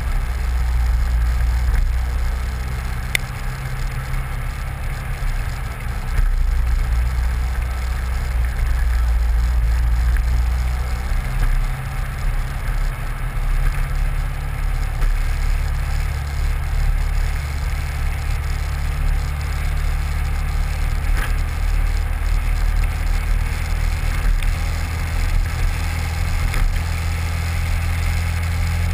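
Turbocharged Honda Civic engine running at low revs as the car rolls slowly: a steady low drone that steps up and down in pitch a few times.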